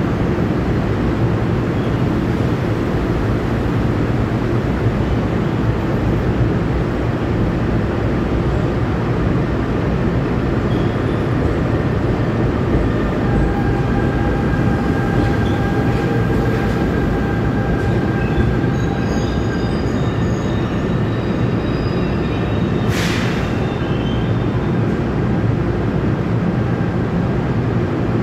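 NJ Transit Comet IV coaches and their electric locomotive rolling slowly past along the platform track, a steady low rumble. Thin wheel squeal sounds from about halfway through for several seconds, and a short sharp hiss comes a few seconds later.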